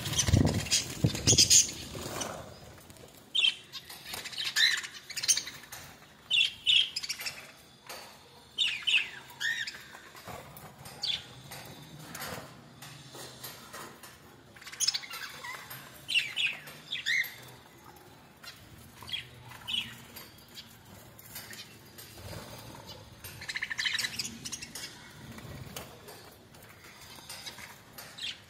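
Pet birds chirping in short clusters of high calls scattered throughout, with wings flapping and occasional clicks.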